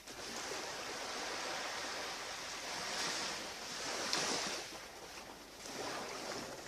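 Surf on a beach: waves washing in as a steady rush that swells about halfway through, eases, then builds again near the end.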